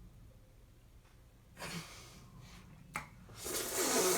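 A woman making exaggerated breathy noises into the microphone while eating ice cream: a short puff, a click, then a longer, louder breathy noise near the end.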